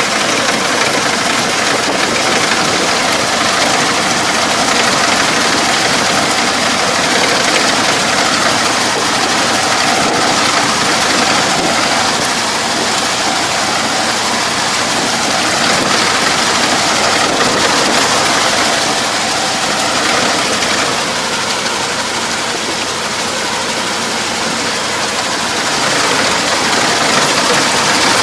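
Engine of a farm machine running steadily at an even speed throughout.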